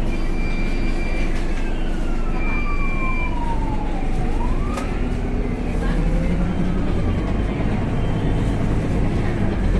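Scania K250UB city bus heard from inside the cabin: engine and drivetrain running, with a gearbox whine that falls in pitch for a few seconds as the bus slows, then rises again as it pulls away. Two short high-pitched beeps sound in the first few seconds.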